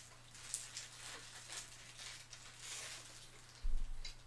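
Close-miked mouth sounds of a person chewing a bite of cheeseburger: irregular soft clicks and smacks. A short low thump comes near the end.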